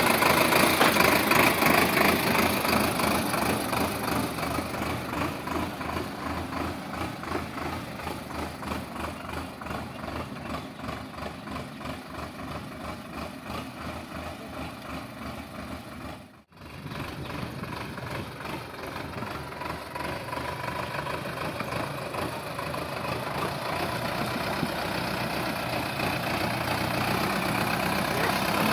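Sonalika DI 750 tractor's diesel engine running with a regular pulsing beat. It fades over the first half, cuts out for a moment about two-thirds of the way through, then grows steadily louder again.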